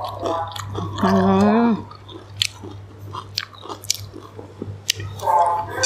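A person chewing a mouthful of prawns and rice close to the microphone, with small wet mouth clicks, and a short hum about a second in.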